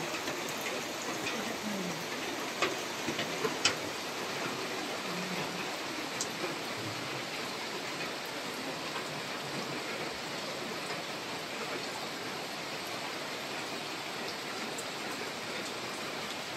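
Steady rain falling, an even hiss, with a few sharp drip taps about three to four seconds in.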